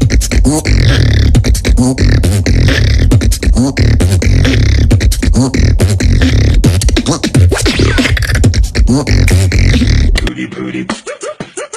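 Loud vocal music with heavy bass and a busy beat of clicks. About ten seconds in it cuts to a thinner, quieter voice recording.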